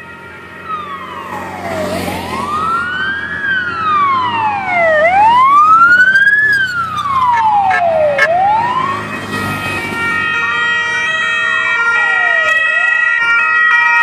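Vehicle siren wailing, its pitch rising and falling about every three seconds. From about ten seconds in the wail fades behind several steady, held high tones.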